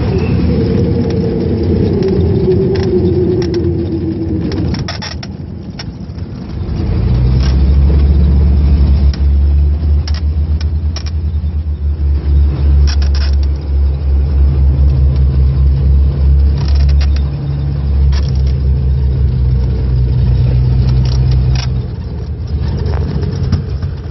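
Aircraft engines heard from inside the cabin after landing: a falling tone over the first few seconds, then from about seven seconds a steady low drone with a pulsing beat and scattered rattles and knocks, easing off near the end.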